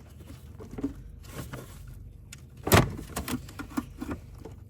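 Workshop handling noise: scattered clicks and knocks of metal parts and tools being handled, with one loud sharp knock or clatter a little under three seconds in.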